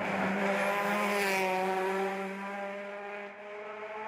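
Race car engine at high revs passing by, holding one steady note. It is loudest about a second in, then fades as the pitch drops slightly.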